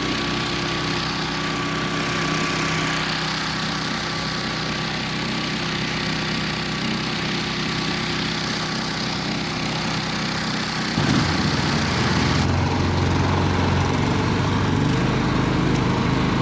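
Small engine of a homemade karakat running steadily under way. About eleven seconds in it gets louder and its tone drops lower.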